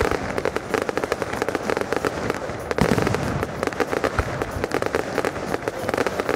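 Fireworks display going off in a dense, continuous run of sharp bangs and crackles, many a second, with no pause.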